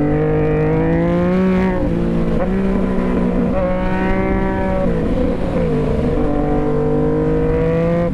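Sport bike engine pulling hard through the gears, its pitch climbing and then falling at the shifts, about two seconds in and again about five seconds in, before climbing again.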